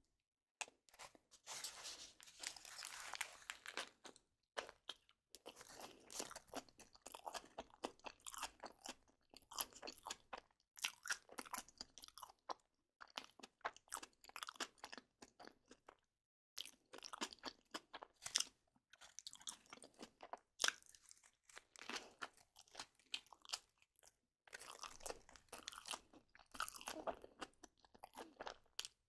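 Close-up crunching, as of crunchy food being chewed, coming in clusters of a few seconds with brief silent gaps between them.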